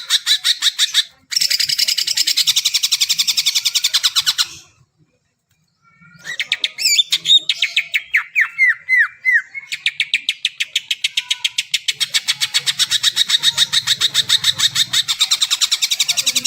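Cucak ijo (green leafbird) singing: long, very rapid chattering trills, broken by a pause of about a second and a half. After the pause comes a varied phrase with a run of quick falling whistles, then another long rapid trill.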